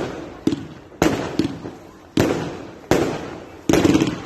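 Fireworks going off: a string of sharp bangs, about one a second, each fading away with a trailing rumble.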